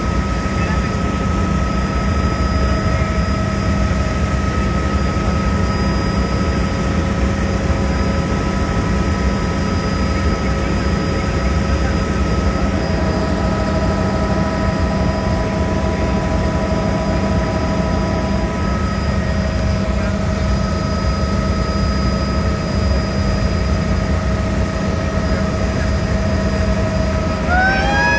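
Helicopter cabin noise in flight: a steady rotor and engine rumble with a constant whine of several fixed tones. Near the end, a short rising cry from a passenger.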